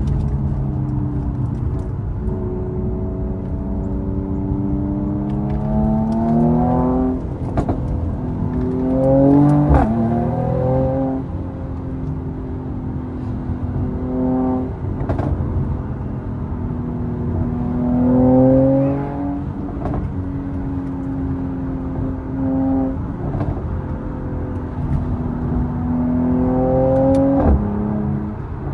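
Mercedes-AMG C43's twin-turbo V6 pulling hard through the gears: the engine note climbs and drops sharply at each upshift, with short sharp pops at several of the shifts and steadier cruising between the pulls.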